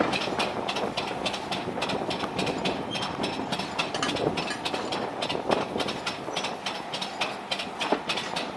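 Heritage railway train running, its wheels clicking over rail joints in a fast, even rhythm of about four or five clicks a second over a steady rumble.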